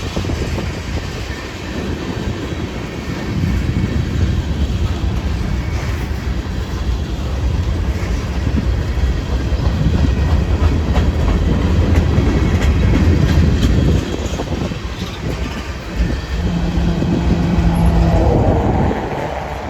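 Freight cars of a slow-moving mixed freight train rolling past, with a steady low rumble and wheels clicking over the rail joints.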